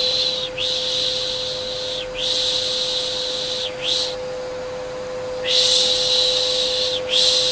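Steady vacuum cleaner hum with repeated long 'shhh' shushing sounds over it, each lasting about a second and a half with brief breaks between them, and a longer pause before the last two.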